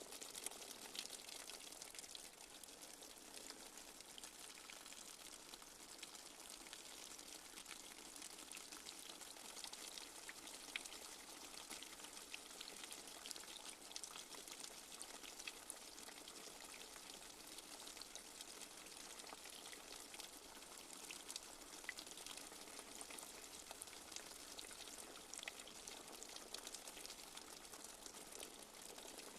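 Light rain falling steadily: a soft, even hiss with many small drop taps scattered through it.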